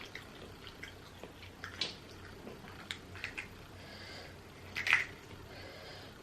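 Close-miked eating sounds: wet chewing, squishing and small smacks of a person eating boiled seafood, with a sharper smack about five seconds in.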